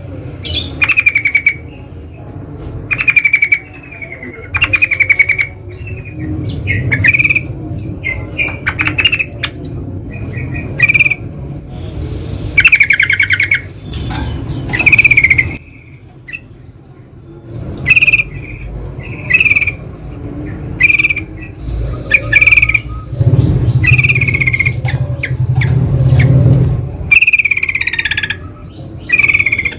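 Yellow-vented bulbuls (trucukan) calling in the wild: short, bubbly chattering phrases repeated every second or two, over a steady low rumble.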